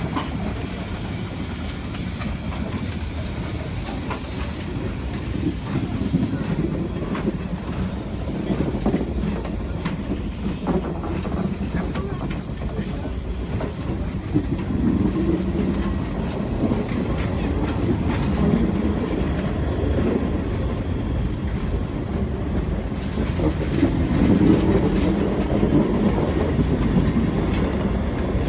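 Steam-hauled train of passenger coaches rolling past close by: a steady rumble of wheels on the rails, a little louder near the end.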